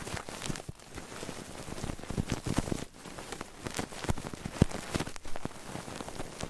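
Close-miked ASMR trigger sounds: a dense, irregular run of soft crackles and clicks.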